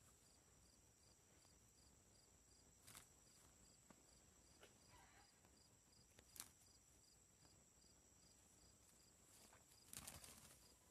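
Near silence outdoors, with a faint, steady high insect chirring pulsing a few times a second, and a few faint short knocks or rustles.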